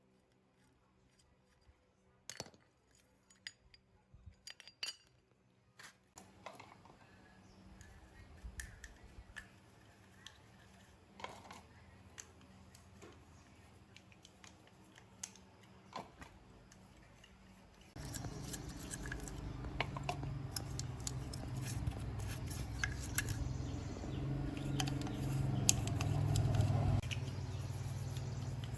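Small metal parts and hand tools clicking and clinking as they are handled, in scattered sharp ticks. About eighteen seconds in, a steady low hum starts and the clinks continue over it.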